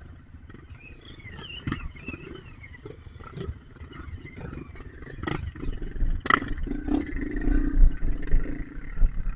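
Off-road trail motorcycle engine rumbling at low revs, with scattered clicks and knocks. It grows louder about six seconds in.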